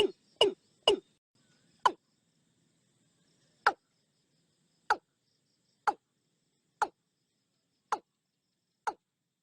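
Watercock calling: a series of short notes, each falling sharply in pitch, at first about two a second, then after a short pause slowing to about one a second.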